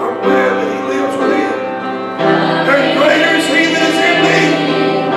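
Church music: a song sung with instrumental accompaniment, with long held notes.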